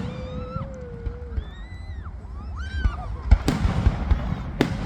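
Fireworks going off: a low rumble of distant bangs, then several sharp cracks in the second half.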